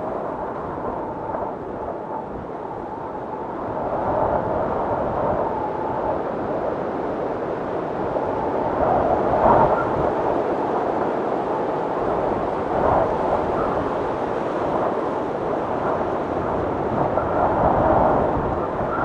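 Blizzard wind howling steadily, swelling into stronger gusts every few seconds.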